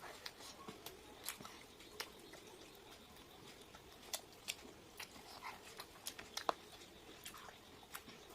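Eating sounds as fried chicken and rice are eaten: quiet, scattered clicks and smacks of chewing and handling food, at an irregular pace.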